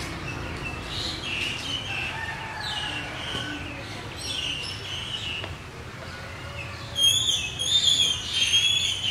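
Small birds chirping in quick, repeated notes, busier and louder about seven seconds in.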